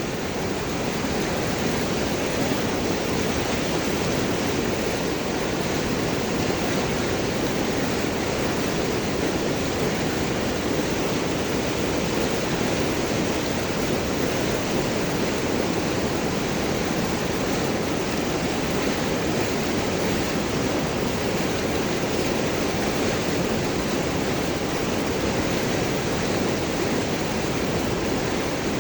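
River water rushing and gurgling over large rocks, a steady unbroken wash of sound.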